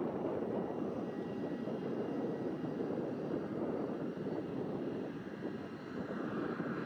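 Jet airliner engines heard as a steady, even rumble with a faint high whine.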